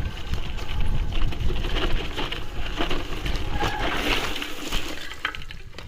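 Mountain bike riding over a rough trail: tyre noise and rattling knocks from the bike, with wind rumble on the microphone.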